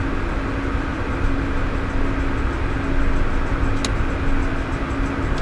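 Steady cockpit noise of a Cessna Citation Ultra business jet in cruise: rushing airflow and engine drone with a steady low hum, and one short click nearly four seconds in.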